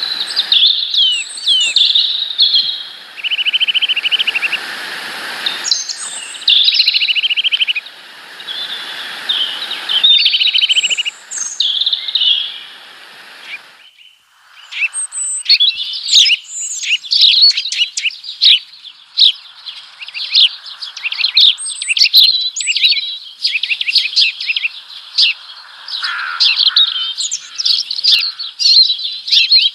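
Small birds chirping and twittering, with a short buzzy trill about three seconds in. After a brief lull about halfway through, a fast, dense run of short chirps follows.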